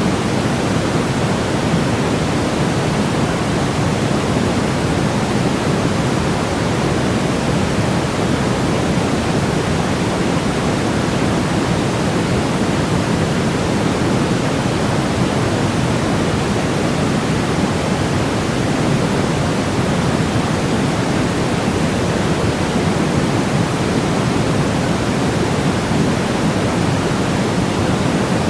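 Synthesized white-noise track for baby sleep: a steady, even hiss, fuller and deeper than bright, with no rhythm or pitch.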